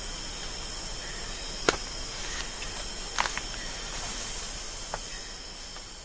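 Rainforest ambience: a steady high-pitched hiss, with a few brief sharp clicks scattered through it.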